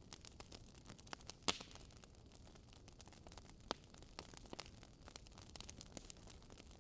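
Wood fire in a fireplace crackling faintly, with many small irregular pops, a sharper pop about a second and a half in and another a little before four seconds in.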